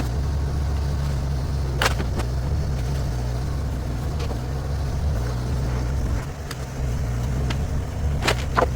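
Mini excavator's diesel engine running steadily, with a few sharp cracks or knocks over it: one about two seconds in and two close together near the end.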